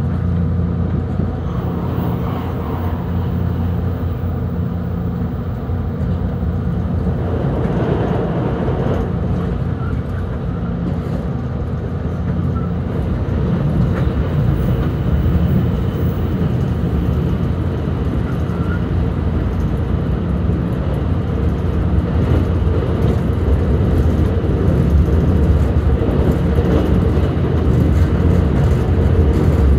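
Cabin running noise of a JR Kyushu 883 series electric limited express at speed, heard from inside an unpowered trailer car: a steady rumble of wheels on rail and running gear that grows a little louder in the last third.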